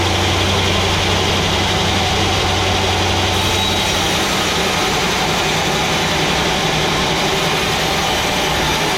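Sawmill machinery running steadily: a constant engine drone with a broad, even hiss over it.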